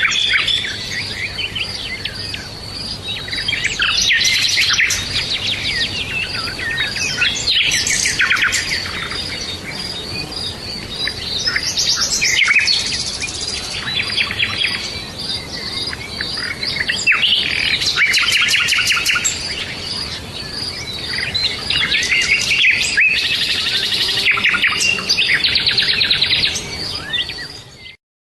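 Forest birdsong ambience: several songbirds chirping, trilling and calling over one another, with a faint steady pulsing high tone running underneath. The recording fades and cuts off shortly before the end.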